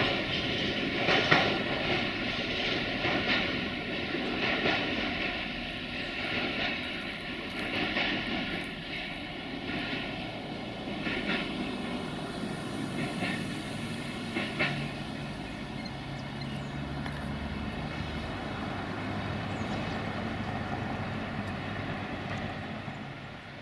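Freight train rumbling away into the distance and slowly fading, with a few sharp clanks from the wagons in the first half.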